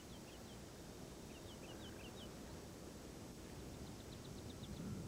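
Faint birdsong: short, high chirps that slide downward, in small groups, then a quick run of short high notes near the end, over a low outdoor hush.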